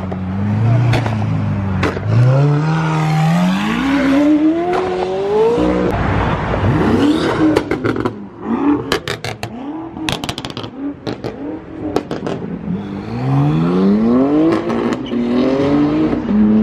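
Lamborghini Aventador SVJ's V12 through a Gintani F1 exhaust, idling, then revved in a long rising sweep that falls away. A rapid string of sharp pops and bangs follows, the overrun afterfire that shoots flames from the exhaust, before another rising rev near the end.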